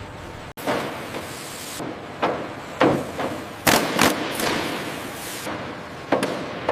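A string of sharp metallic bangs and clanks, about six at irregular intervals, each with a short ringing tail, mixed with a burst of hiss that starts about half a second in and cuts off after about a second.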